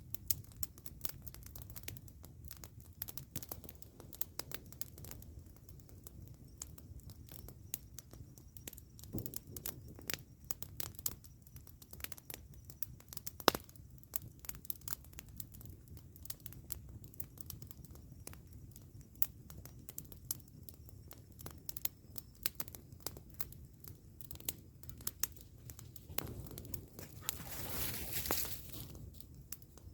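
Campfire wood crackling and popping: irregular sharp snaps over a low steady rush, with one louder pop about halfway through and a swell of rushing noise near the end.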